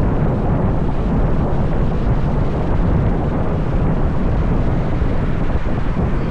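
Wind buffeting the microphone of a moving motorbike: a loud, steady low rumble of rushing air that masks the bike's engine and tyres.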